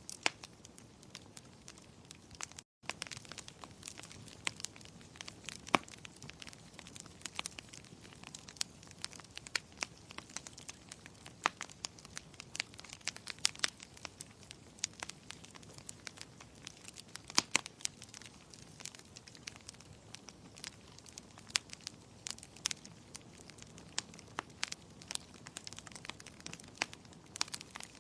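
Wood fire burning in a fireplace: a soft steady hiss with irregular sharp crackles and pops, some much louder than others. The sound cuts out for a split second about three seconds in.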